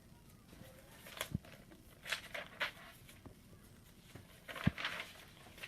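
Quiet room tone with a handful of short, soft clicks and rustles scattered through it, like handling noise.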